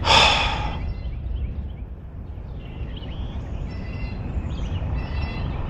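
Outdoor background: a steady low rumble with scattered faint bird chirps. A short rush of noise sounds at the start.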